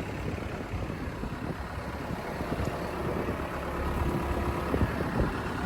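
Case 580L backhoe's diesel engine idling steadily.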